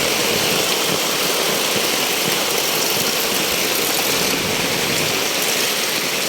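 Floodwater rushing in a strong current, a steady, even roar of water.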